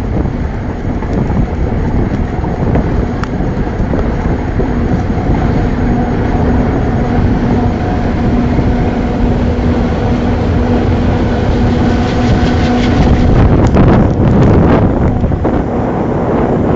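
Locomotive running along the line, heard from on board: a steady rumble and rattle with wind buffeting the microphone. A steady droning tone holds from about five seconds in to about thirteen seconds, and a burst of clattering comes near the end.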